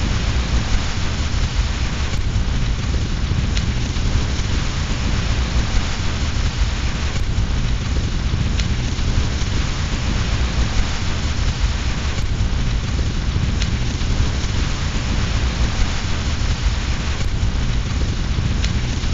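Steady rain with a deep, continuous low rumble, and a few faint, scattered crackles from a fireplace fire.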